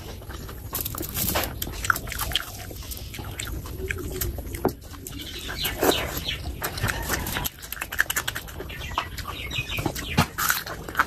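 Close-miked eating sounds: wet chewing and lip-smacking of saucy chicken skin curry eaten by hand, as many short clicks and smacks. Near the end comes a crunchy bite into a raw shallot.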